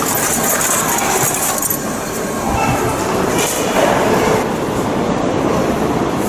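Shinkansen train running: a steady rush and rumble of noise, with a brighter hiss in about the first two seconds.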